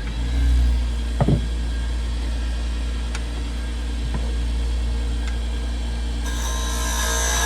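Wood lathe motor starting up and running with a steady low hum, with one knock about a second in. Near the end a hiss joins as work on the spinning cherry handle begins.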